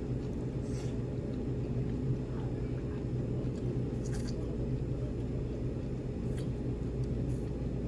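A steady low hum of room background noise, with a few faint short clicks scattered through it.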